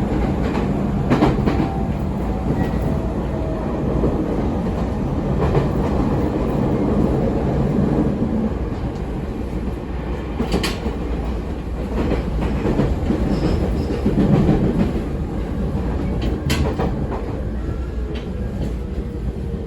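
Running sound of a 209 series 3100 subseries electric multiple unit with Mitsubishi GTO VVVF inverter, heard from inside the car: a steady rumble of wheels on rail, with sharp clicks now and then as the wheels cross rail joints, and a falling motor tone near the end.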